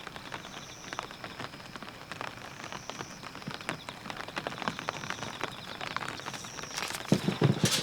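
Rain falling on a dome tent, with many separate drops ticking on the fabric over a steady hiss. Near the end come a few louder, deeper thuds.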